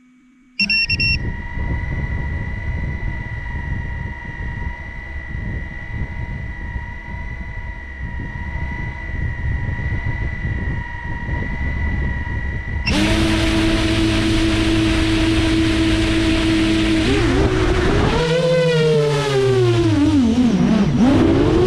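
Brushless motors and 7-inch propellers of an FPV quadcopter: a steady hum at first, then about 13 seconds in a sudden jump to a much louder whine as the throttle goes up, its pitch rising and falling repeatedly with the throttle near the end.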